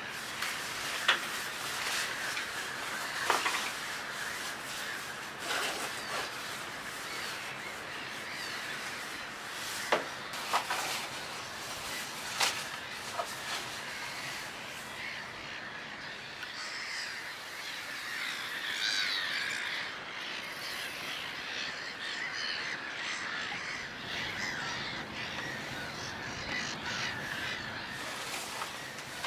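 Birds at a lake giving harsh, caw-like calls over a steady hiss, busiest a little past the middle. A handful of sharp clicks stand out, most of them in the first half.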